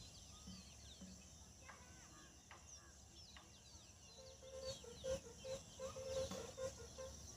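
Faint chirping of small birds, joined about four seconds in by a run of short, repeated low clucking calls from a fowl.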